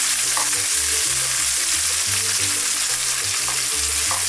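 Peeled tomatoes sizzling steadily in hot olive oil in a frying pan while being stirred with a plastic spatula, with a couple of light taps of the spatula against the pan. Soft background music with a low bass line runs underneath.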